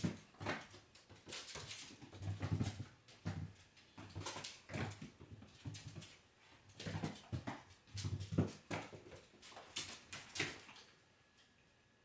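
A mixed-breed dog making short, irregular vocal and breathy sounds, in bursts about one or two a second, fading out near the end.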